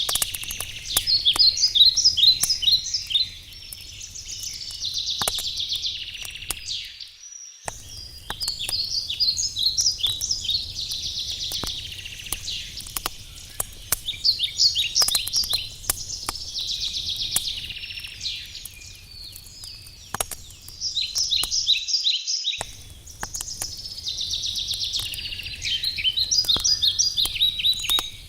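Wood campfire crackling with sharp pops, under songbirds singing repeated trilled phrases every few seconds. The sound cuts out briefly twice.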